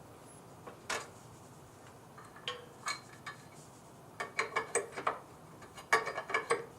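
Metal distributor parts clicking and clinking as they are handled and fitted together during reassembly of an HEI distributor: a few single clicks, then two quick runs of clinks near the end.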